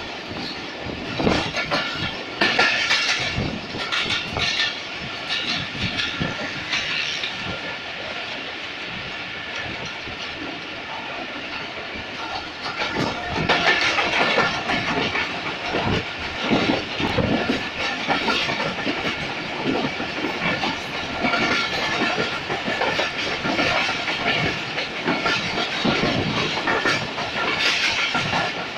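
Moving passenger train heard from an open coach window: the wheels clatter over the rail joints in an uneven run of knocks over the steady rumble of the running gear, growing louder about halfway through.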